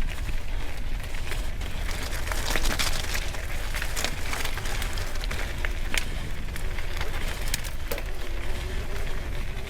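Mountain bike riding over a wet, stony trail: tyres crunching on stones, with frequent clicks and rattles, over a steady low wind rumble on the microphone.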